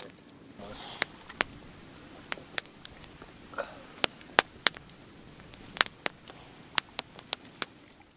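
Wood campfire crackling, with sharp irregular pops over a low steady hiss.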